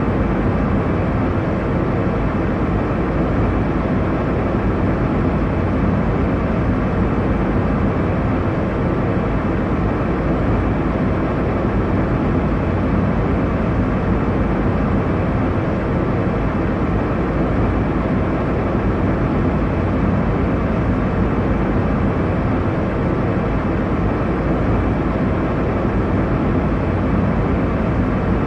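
Airliner cabin noise in flight: a steady low rush of engine and airflow that stays even throughout.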